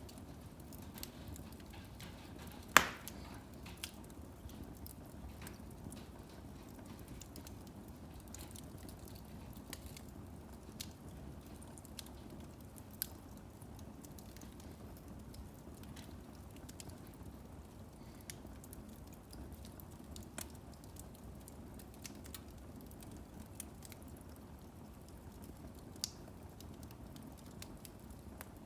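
Firewood burning in a fireplace: a low steady rush of flame with scattered crackles and a few sharp pops, the loudest about three seconds in.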